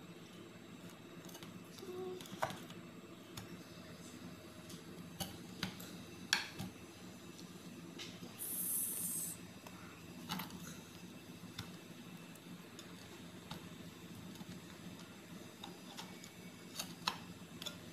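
Table knife cutting a baked, seed-topped pastry in a glass pie dish: faint scattered taps and scrapes of the blade, with a brief high hiss about halfway through.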